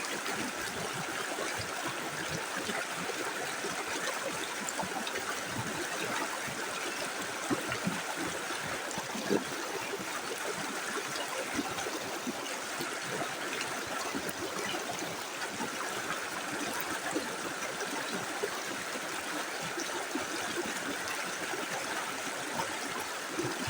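Small river flowing over stones: a steady rush of running water with small gurgles and splashes.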